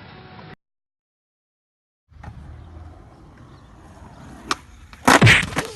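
Skateboard wheels rolling on pavement, coming in after a brief dead silence, with a sharp click about halfway and a loud crack near the end.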